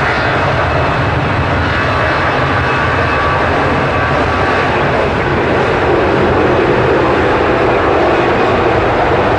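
Airbus A320-214's CFM56 jet engines at take-off power: a loud, steady jet noise with a faint whine, growing slightly louder about six seconds in.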